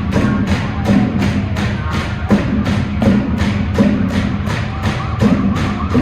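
Marching drumline playing a steady beat: sharp high ticks about four times a second over low drum hits, with some pitched accompaniment coming in near the end.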